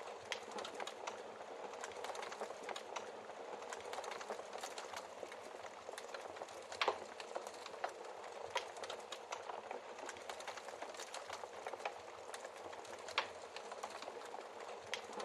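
Wood fire crackling steadily, with irregular sharp pops from burning logs; the loudest pop comes about halfway through.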